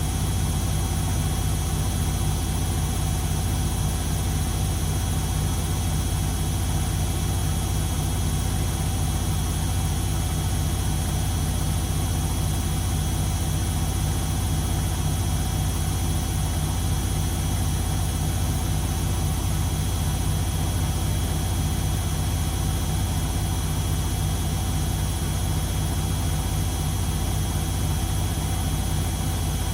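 Beko WMD 46160 washing machine running steadily: a constant low drone with several steady tones above it, unchanging throughout.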